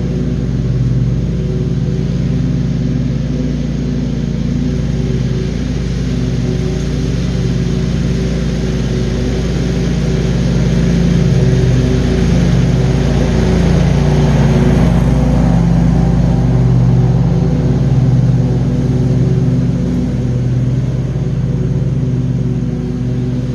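John Deere QuikTrak 652R stand-on mower running steadily at mowing speed, its engine drone constant, with a louder rush of noise for a few seconds around the middle.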